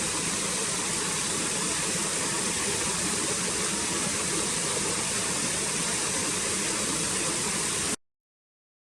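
Steady rushing noise with no distinct events, cutting off abruptly about eight seconds in.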